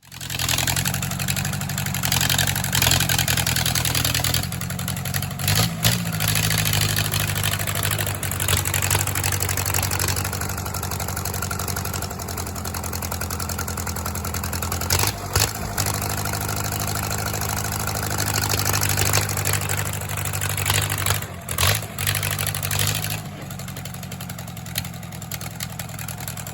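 1963 Case 310F crawler bulldozer's engine running, idling steadily with some revving, broken by a few sudden jumps in the sound.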